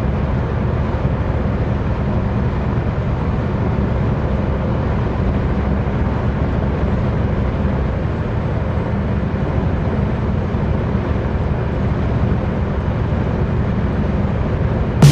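Steady drone of a semi truck's diesel engine and road noise, heard inside the cab while driving on the highway.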